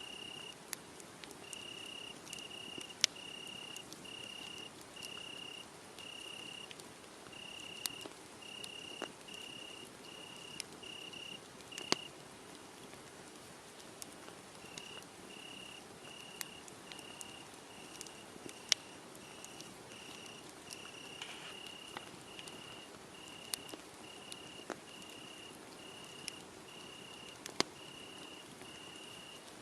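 Crickets chirping in an even pulse, about one and a half chirps a second, pausing for a few seconds midway, over a wood fire that crackles with scattered sharp pops.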